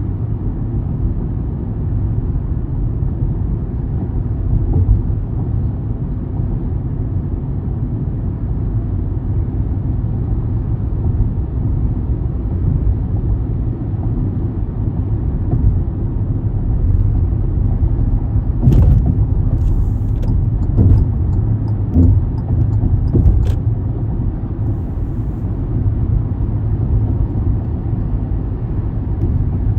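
Steady low rumble of a car driving, road and engine noise. A few short sharp knocks come about two-thirds of the way through.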